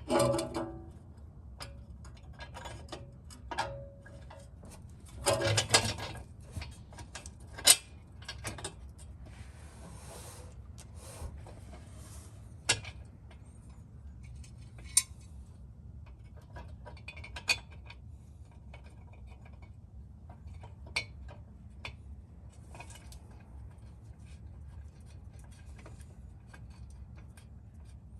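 Scattered small metallic clicks and rubbing from hand work on exhaust hardware: bolts, nuts and the test pipe being handled and fitted.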